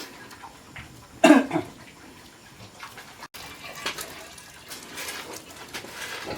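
Water running and splashing. About a second in, a short loud cry with a falling pitch stands out above it.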